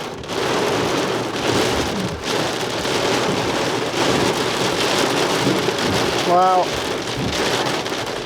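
Small hail falling: a dense, steady patter of many tiny hailstones hitting the ground and nearby surfaces, a little louder from just after the start.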